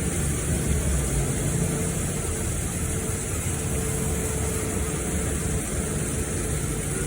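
Steady running noise of a car: an even low engine and road noise with a faint steady hum that comes and goes.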